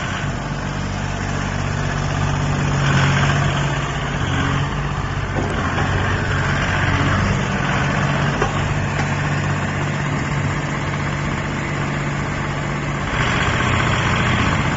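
A 3-ton mini excavator's diesel engine running steadily at idle, with a low, even hum. It grows louder briefly about three seconds in and again near the end.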